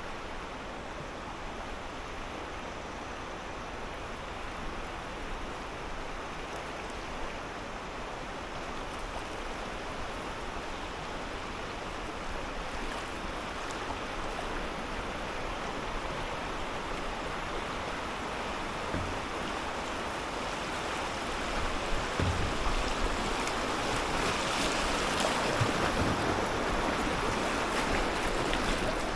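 Steady rushing of river water, growing louder over the last third, with a few low thumps.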